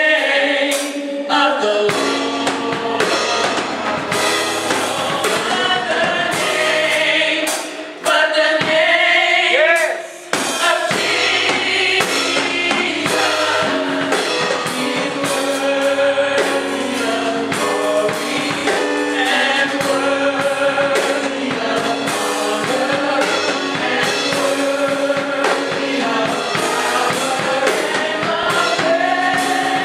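Gospel choir singing with a band and drum kit.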